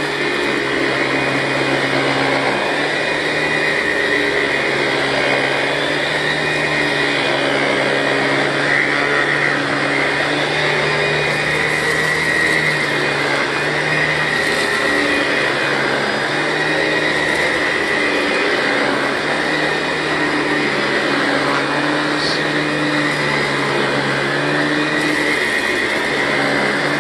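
Commercial vacuum cleaner running steadily as it is pushed over carpeted entry mats, picking up salt tracked in on shoes. It makes a constant motor whine with a low hum underneath, wavering slightly as it moves.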